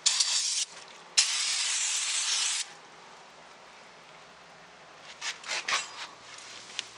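Aerosol can of carburettor cleaner spraying in two bursts, a short one and then a longer one of about a second and a half, onto a greasy steel wheel rim. About five seconds in come several brief rubbing strokes as the rim is wiped.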